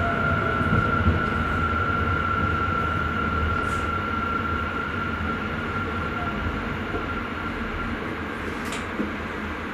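Electric Sprinter train heard from the driver's cab while running on the line: a steady rumble of wheels on rail with a thin high whine that fades out near the end, the whole sound slowly getting quieter.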